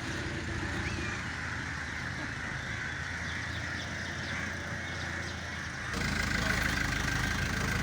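A vehicle engine idling steadily under outdoor background noise, getting louder about six seconds in.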